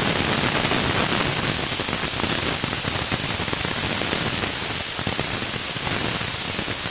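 Onion and spice masala frying in oil in a pan, a loud, steady sizzle with fine crackling.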